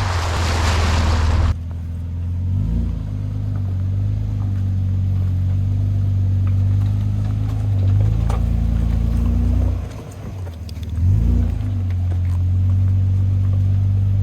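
Unmuffled exhaust of a Toyota 80-series Land Cruiser's inline-six, its muffler cut off, running at low trail speed with revs rising and falling a few times. A loud rushing noise over the engine stops abruptly about a second and a half in.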